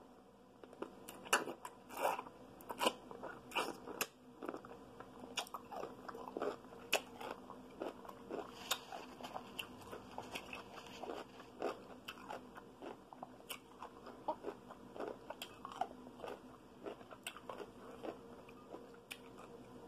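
A person biting into a large whole dill pickle and chewing it: sharp crunches, loudest in the first few seconds, then steady crunching and chewing.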